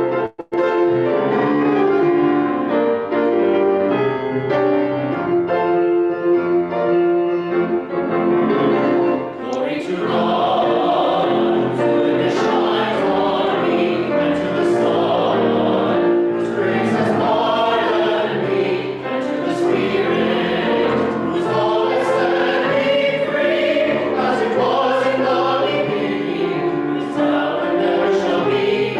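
Church music: a sustained keyboard introduction, then a choir comes in singing over the accompaniment about a third of the way in.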